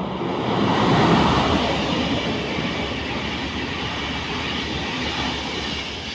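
A train passing close by on the tracks: its rumble and rail noise swell to a peak about a second in, hold steady, then begin to fade near the end.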